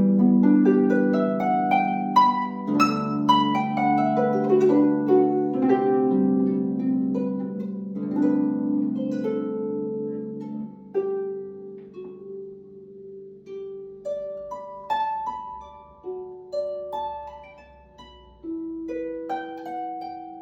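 Solo harp playing, plucked strings ringing on and overlapping. The notes come thick and full at first, then thin out about halfway into slower, sparser single notes.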